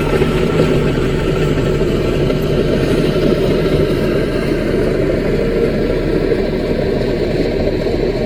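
CAT mini bulldozer's diesel engine running steadily.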